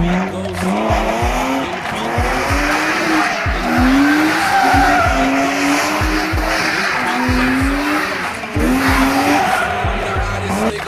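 BMW E36 325i's M50B25 straight-six revving up and down again and again as the car spins donuts, with its tyres squealing and skidding. Hip-hop music with a steady bass beat plays underneath.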